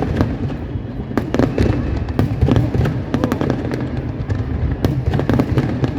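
Fireworks going off: a dense, irregular run of sharp crackling pops and bangs, several a second, over a steady low rumble.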